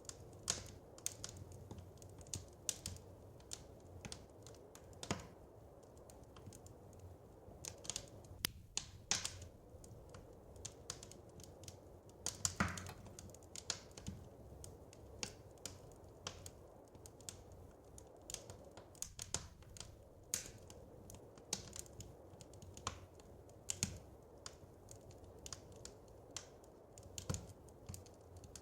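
Wood fire crackling in a fireplace: irregular sharp snaps and pops, several a second, some louder than others, over a steady low rumble.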